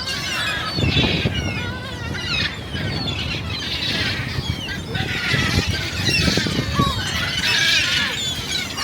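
A large flock of gulls calling over one another, a constant overlapping chorus of short high cries.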